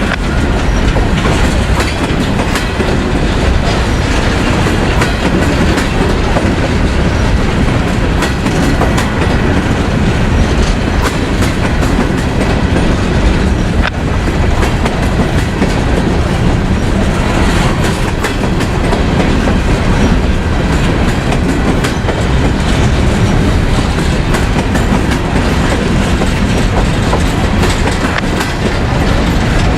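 Freight train rolling past at close range: a loud, continuous rumble of railcars with steady wheel clicks over the rail joints.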